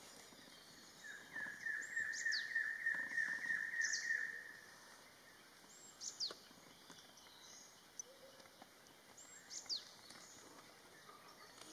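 Wild birds calling: about a second in, a quick run of about a dozen repeated notes, three or four a second, lasts some three seconds. Thin, high, falling whistles come every few seconds over a steady background hiss.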